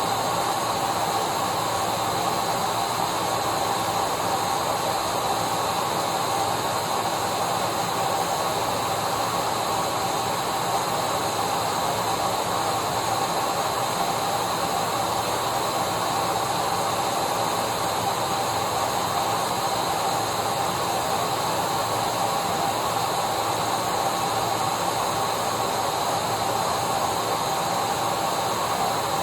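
Vacuum cleaner running steadily: an even hiss with a steady motor whine over it, unchanging throughout.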